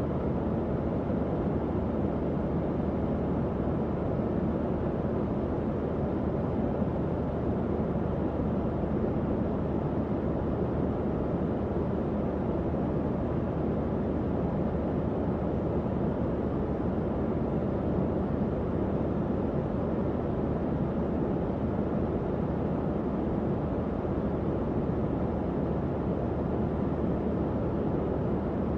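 Tower fan running steadily: an even, low rushing whoosh of moving air that holds without change.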